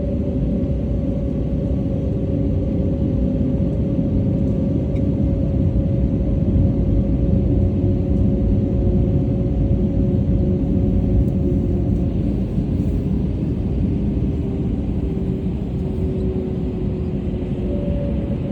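Steady low machinery rumble with a steady hum on two notes; the lower note fades out near the end.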